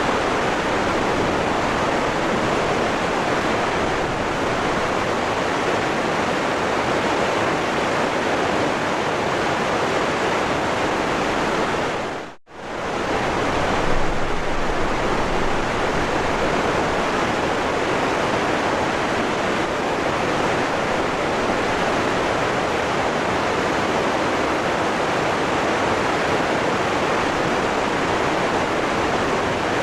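Waterfall rushing, a steady, even roar of falling water. It dips out for a moment about twelve seconds in, then comes straight back.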